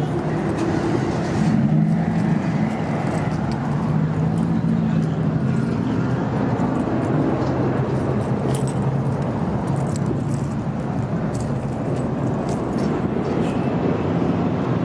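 Vehicle engines running steadily over road noise, with scattered light clicks and rattles.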